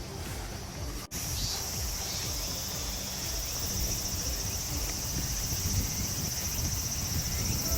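Insects chirring outdoors in a steady high-pitched chorus that starts after an abrupt cut about a second in, over a low rumble.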